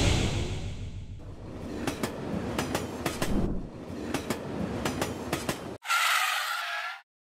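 A train passing, its wheels clacking over the rail joints in close pairs over a steady rumble. About six seconds in it cuts off abruptly, and a burst of rushing noise lasts about a second.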